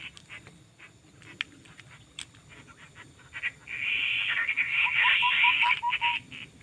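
A bird calling: a harsh, rasping call with a run of about six short rising notes, starting a little past the middle and stopping shortly before the end. Faint scattered clicks come before it.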